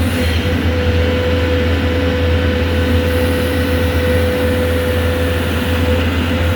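Cat 320 excavator's diesel engine running steadily at working speed, with a steady high tone over the low engine sound.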